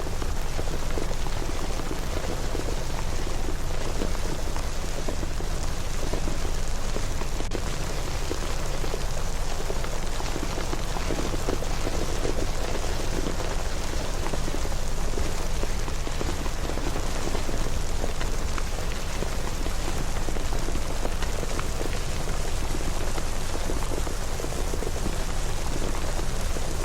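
Steady rain ambience: an even, unbroken patter of rain with a low rumble underneath.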